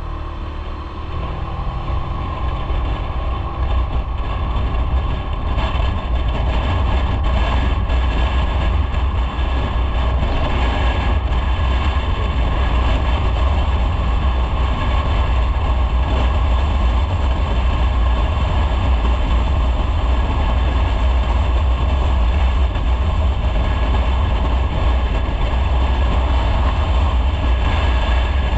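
Motorcycle riding along at steady speed: the engine running under a loud, steady low rumble of wind and road noise. It builds over the first few seconds and then holds even.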